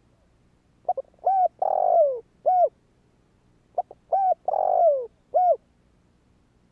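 Spotted dove cooing: two calls, each a couple of quick short notes, a longer coo that falls in pitch, and a short final coo.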